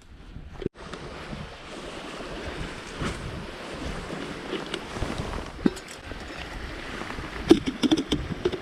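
Wind and lapping water around a canoe on open water, with wind noise on the microphone and a few sharp knocks near the end.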